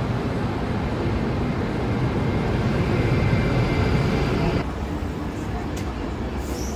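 Steady rumbling noise of a moving vehicle. About two-thirds of the way through it cuts to a quieter, duller rumble.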